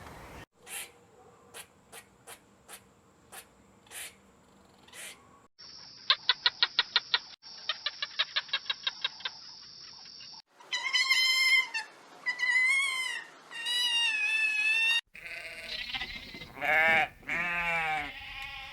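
A run of separate animal sound clips: first a few sharp clicks, then a rapid pulsing trill of about ten pulses a second, then several loud, wavering bleats of a goat or sheep that fill the second half and are the loudest part.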